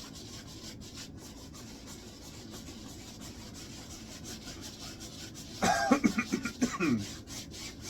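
Paintbrush scrubbing oil paint onto a wet canvas, a steady soft rubbing. About two-thirds of the way in, a short burst of a person's voice, louder than the brushing, lasting a little over a second.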